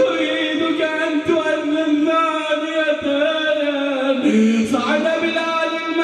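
A man's voice chanting a mournful Arabic elegy (na'i) in long, wavering held notes, with a brief drop in pitch about four seconds in.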